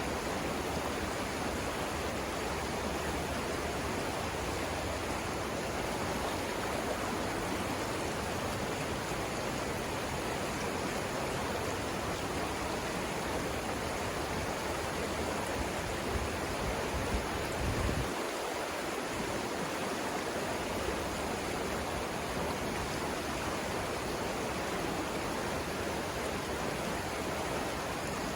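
Steady rushing of river rapids, an even wash of flowing water. About two-thirds of the way through, a brief low rumble rises under it and cuts off sharply.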